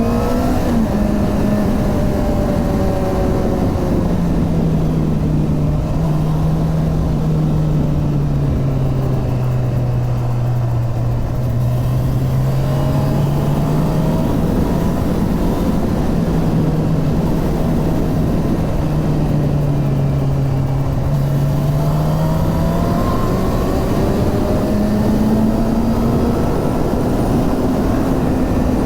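Suzuki GSX-R 750 inline-four motorcycle engine running under way over steady wind rush. Its pitch sinks slowly through the first half, climbs again in the middle, sinks, then rises near the end, with a few small steps along the way.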